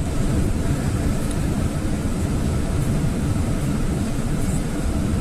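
Steady low rumble of a GAZelle light truck's engine and running gear heard from inside the cab.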